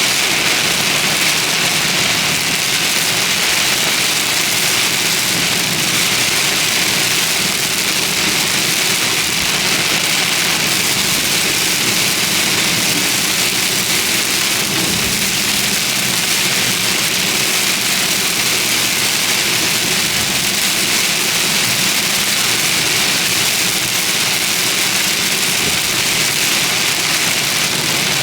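Heavy rain falling hard and steadily, a dense even hiss, with a vehicle's engine and road noise running low underneath.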